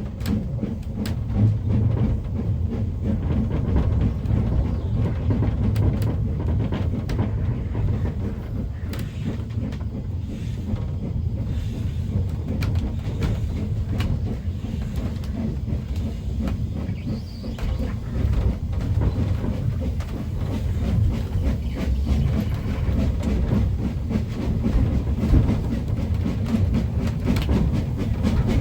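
Narrow-gauge railway carriage running along the track: a steady low rumble with scattered clicks and knocks from the wheels on the rails.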